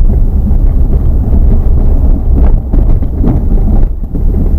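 Strong wind buffeting the microphone: a loud, steady low rumble with gusty swells.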